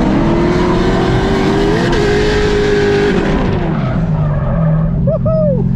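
C6 Corvette Z06's supercharged LS7 V8 held at high revs through a drift, with tires skidding and squealing. About three seconds in the revs drop and the engine settles to a lower, steadier note as the tire noise fades and the drift ends.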